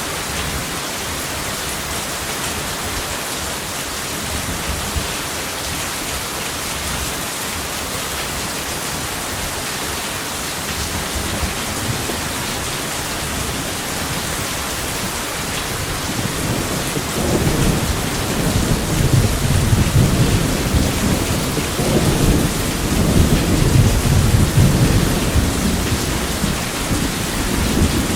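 Steady heavy rain hissing. About two-thirds of the way through, thunder rumbles low, rolling in two long swells before easing near the end.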